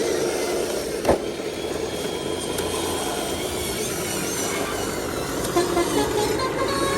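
Heavy truck's diesel engine running steadily under load, with a sharp bang about a second in.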